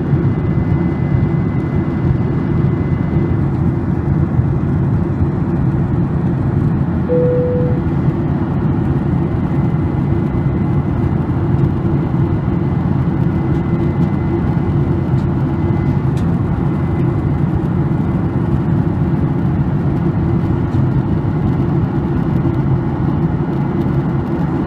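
Jet airliner cabin noise during the climb: a steady, loud engine and airflow rumble heard from a window seat. A brief single tone sounds about seven seconds in.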